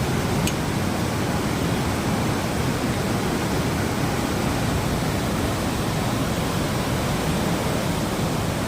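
Steady rush of river water pouring over a dam, an even roar with no let-up.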